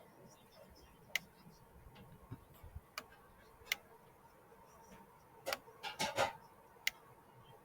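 Sparse, irregular faint clicks and pops over a quiet hiss, with a short cluster of them about six seconds in.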